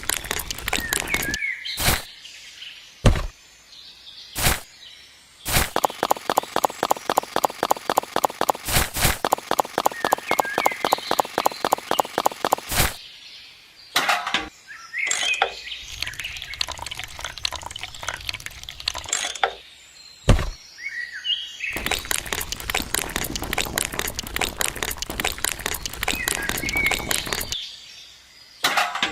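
A fast, even mechanical clicking, about seven clicks a second, for several seconds in the middle, with birds chirping, broken up by abrupt cuts and a few sharp knocks.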